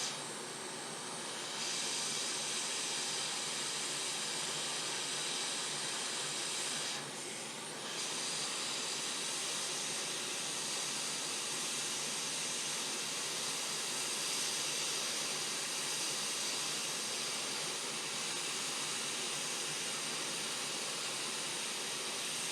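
Hot air rework station blowing a steady hiss with a faint whine while a MOSFET is soldered onto a laptop motherboard; the airflow is lower for the first second and a half and dips briefly around the middle.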